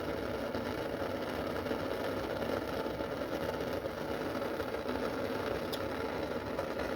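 Handheld gas torch burning steadily as a flame heats the engine block around a broken bolt, to loosen it for drilling out.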